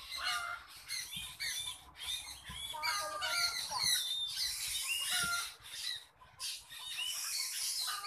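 Several birds calling at once in the tree canopy: a busy chorus of short chirps and whistled notes that overlap, with a brief lull around the middle.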